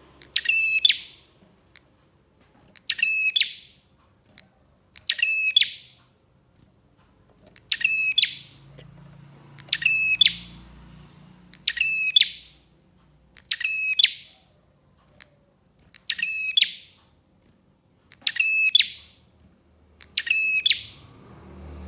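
Prinia (prenjak) calling: a short, sharp phrase of rapid notes repeated about every two seconds, ten times.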